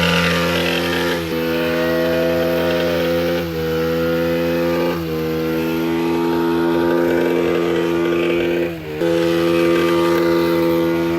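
Suzuki GN125 single-cylinder four-stroke engine running hard at high, fairly steady revs. Its note breaks off briefly and steps to a new pitch about four times, as at gear changes.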